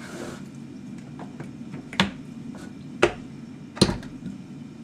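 Three sharp knocks about a second apart over a low steady hum; the third is the loudest.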